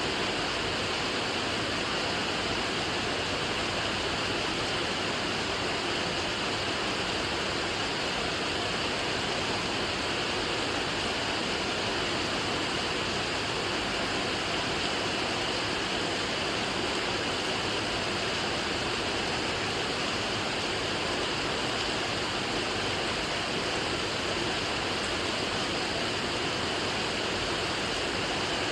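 Steady rain, a continuous even hiss with no single drops standing out.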